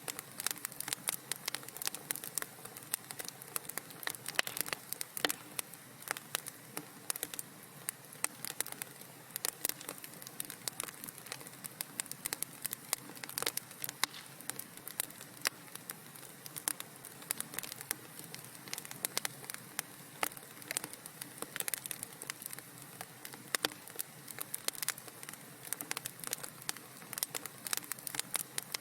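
Wood fire crackling in a fireplace: a steady low hiss under dense, irregular snaps and pops, several a second.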